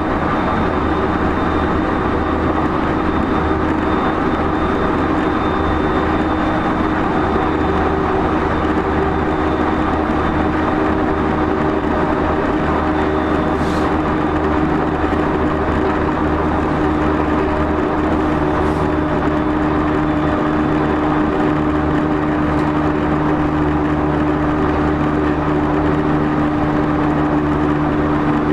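JR East E231-0 series electric train running at speed, heard from inside a motor car. The traction motors and gears hum steadily over the wheel and rail rumble, with a few faint ticks.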